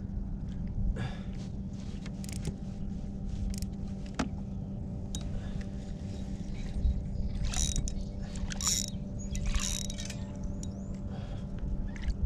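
A fishing reel being cranked while a hooked bass is played from a kayak, with scattered clicks and knocks and a few short noisy bursts in the second half.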